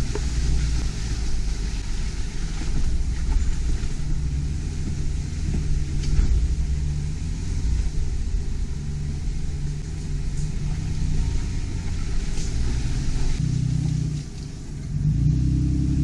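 Off-road vehicle engine running at low speed as it crawls along a rough trail, with a few faint knocks. Near the end it dips briefly, then picks up with a rising pitch as it accelerates.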